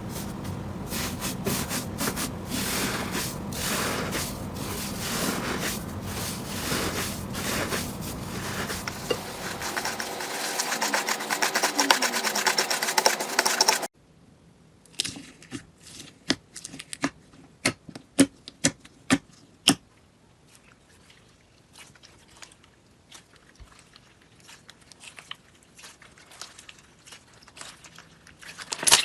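Slime being handled, giving dense sticky crackling and clicking. About halfway through the sound changes abruptly to a quieter stretch of scattered sharp pops and clicks.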